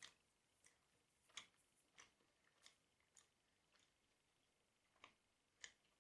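Near silence, with faint soft mouth clicks from chewing a piece of candy with closed lips, roughly one every half second to second.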